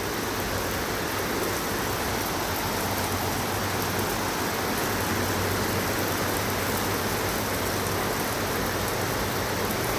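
Heavy rain falling steadily in a thunderstorm: a dense, even hiss with no let-up.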